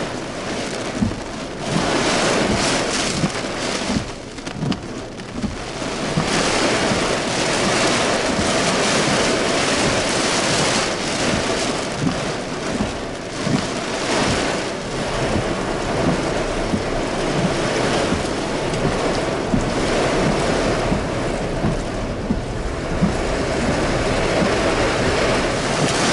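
Heavy rain pouring down in a severe thunderstorm, a dense steady hiss with many sharp ticks of drops, and some small hail, striking hard surfaces.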